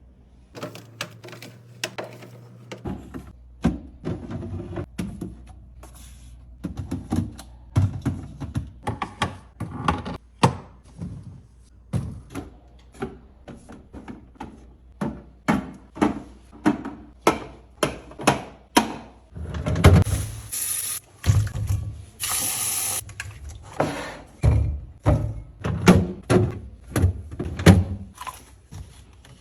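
Containers and food items being handled and set down while a fridge is organised: a steady run of knocks, clicks and clatters, with two short rushing bursts about two-thirds of the way through.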